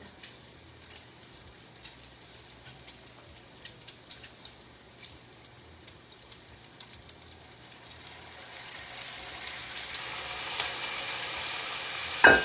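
Food in a pot on the stove sizzling and crackling faintly, the sizzle growing louder over the last few seconds, then a sharp knock just at the end.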